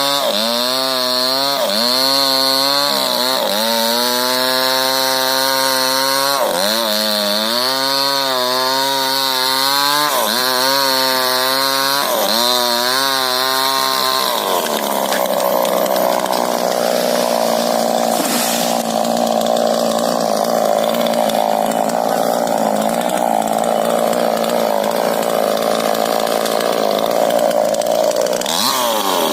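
Two-stroke chainsaw cutting into a rubber tree. For the first half its engine pitch dips and recovers every second or two as the chain bites. It then holds a steadier, noisier tone for the second half and revs up again near the end.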